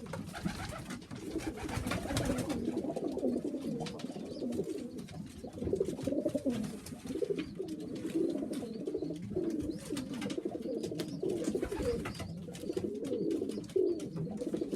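Several domestic pigeons cooing at once in a loft, a continuous overlapping burble of calls, with some rustling and clicks in the first couple of seconds.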